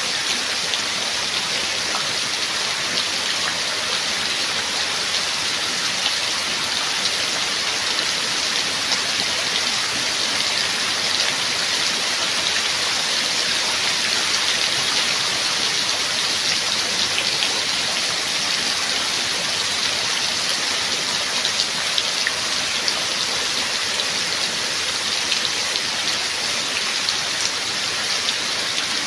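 Steady rain falling, with many small individual drops ticking through an even hiss.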